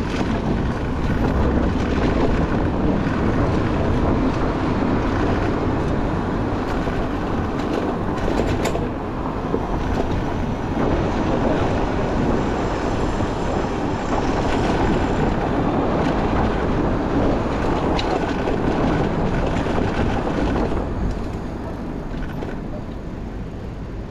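City traffic noise heard from a moving bicycle: a steady rumble of road and vehicle noise mixed with wind on the microphone, with a few light clicks. It gets quieter about three seconds before the end, as the bike slows.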